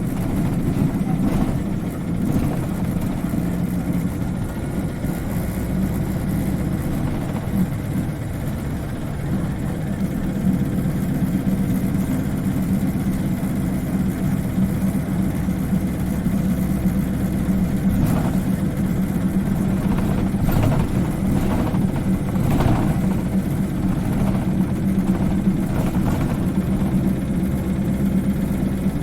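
Isuzu Cubic KC-LV380N city bus heard from inside while driving: its diesel engine runs steadily with road noise, and a few brief knocks or rattles come in the second half.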